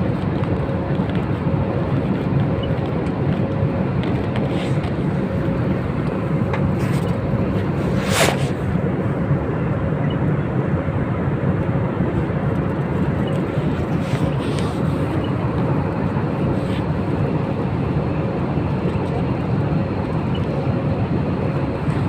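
Steady running noise inside a moving passenger train coach, with a faint steady tone and a few light clicks, the sharpest about eight seconds in.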